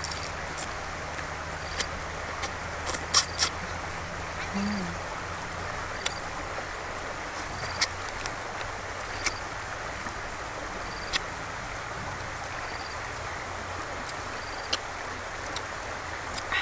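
Mouth sounds of someone eating crab curry: scattered sharp smacks and clicks of chewing, a few seconds apart, over a steady background hiss.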